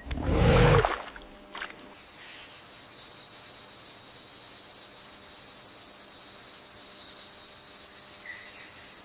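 A loud rushing noise for about the first second, then a steady high-pitched insect drone from about two seconds in.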